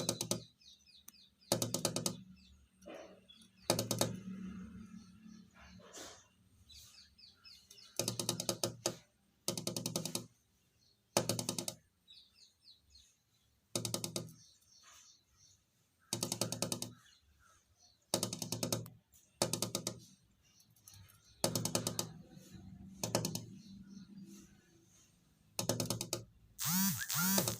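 Small bird pecking at window glass: short bursts of rapid taps, repeated every couple of seconds, with faint chirps between them.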